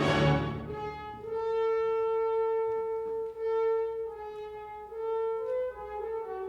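A symphony orchestra playing: a loud full chord dies away in the first second, then a solo brass line holds long, steady notes and moves in shorter steps near the end.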